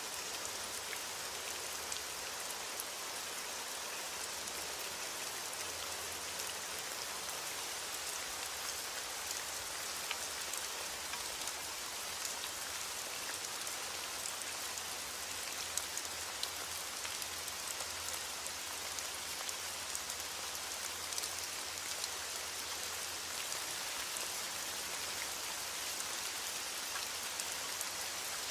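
Heavy rain falling steadily on a window, an even hiss with scattered small ticks of individual drops.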